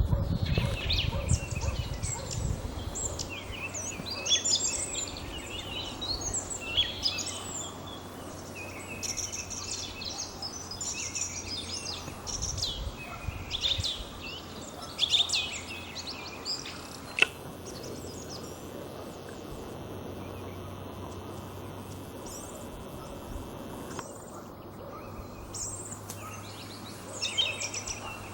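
Song thrush singing: a run of loud, varied whistled phrases that breaks off about seventeen seconds in and resumes near the end. A single sharp click comes just as the song pauses, and there is a low rumble in the first couple of seconds.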